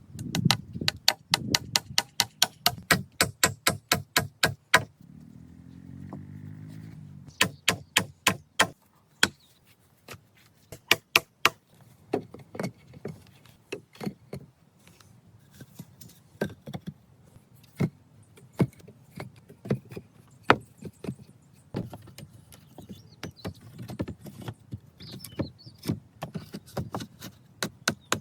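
Quick runs of sharp knocks from a hand tool at work, about four to five strikes a second, stopping and starting in bursts, with a brief low hum about five seconds in.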